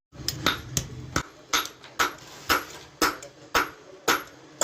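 Blacksmith's hand hammer striking metal on an anvil in a steady rhythm, about two blows a second, each with a short metallic ring.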